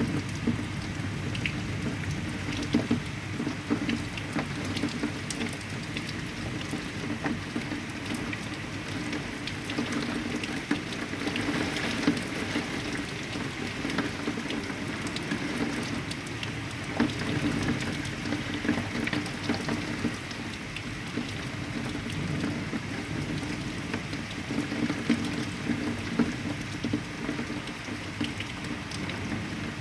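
Heavy rain falling steadily, with many sharp individual drop hits on a nearby surface through the even hiss of the downpour.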